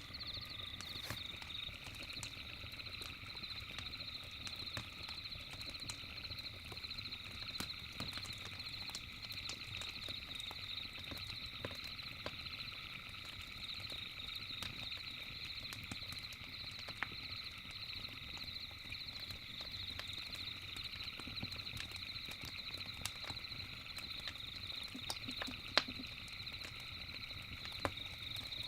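Campfire crackling with scattered sharp snaps, the loudest about three-quarters of the way through, over a steady, high, fast-trilling night chorus of insects or frogs.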